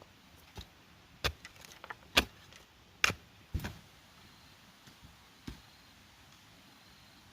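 Bamboo being worked by hand: a handful of sharp, irregular knocks and clacks, the loudest two about two and three seconds in, then the sound dies away after about five and a half seconds.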